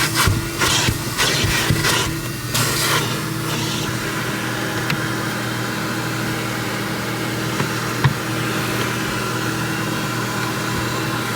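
A steady low motor hum, with a run of short, sharp noises over the first three seconds or so.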